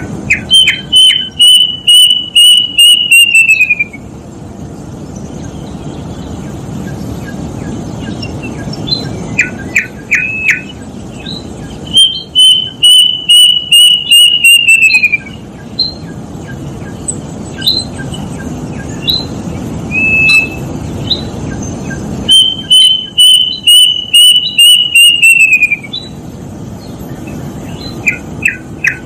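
Plaintive cuckoo (kedasih) singing loudly: three series of quick, repeated whistled notes, each lasting about three seconds and sliding down in pitch at the end, roughly every ten seconds. Shorter sharp calls come between the series, over a steady background hiss.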